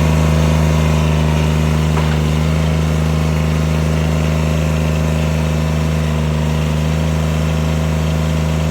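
John Deere 332 garden tractor's three-cylinder diesel engine running steadily.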